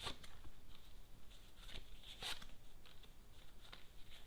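Lenormand cards being handled: a few soft rustles and light taps, the clearest about two seconds in.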